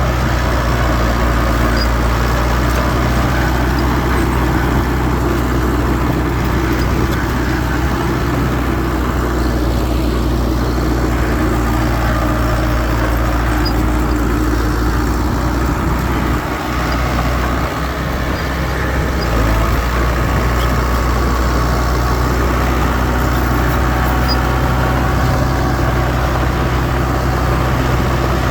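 Heavy diesel machinery engine running steadily, with a brief drop in level about seventeen seconds in.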